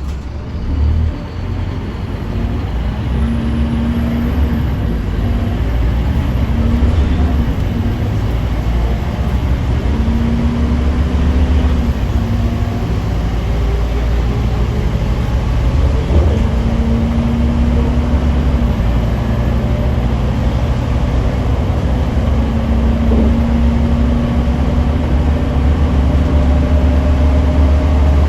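Scania K310UB6X2 city bus running under way: a steady low engine drone with road noise. A tone comes and goes over it several times, and the sound grows a little louder over the first few seconds.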